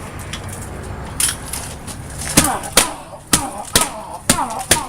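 Hard blows struck against a laminated glass window that cracks but does not break. One knock comes about a second in, then a steady run of strikes a little over two a second, each with a brief falling ring after it.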